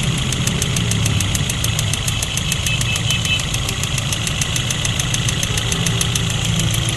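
Toyota GLi 1.3's four-cylinder petrol engine running steadily at idle with a fast, even ticking. The engine has a misfire that the mechanic puts down to faulty ignition coils.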